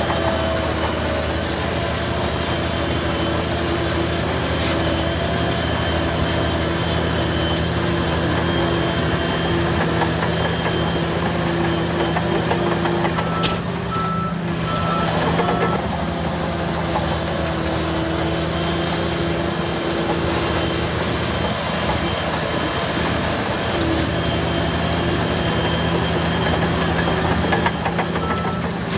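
Heavy diesel earthmoving machinery running steadily. A backup alarm beeps a few times about halfway through and again near the end.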